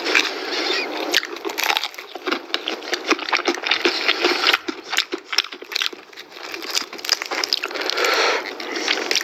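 Close-up eating sounds: crispy fried chicken being bitten and chewed, a dense run of sharp crackles and crunches.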